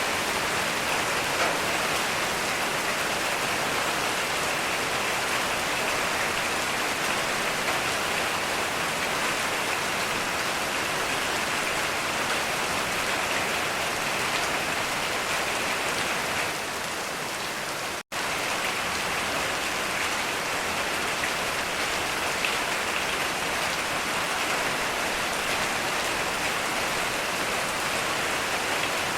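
Heavy rain falling steadily, a dense even hiss of drops. About two-thirds of the way through it dips slightly and cuts out for an instant, then carries on.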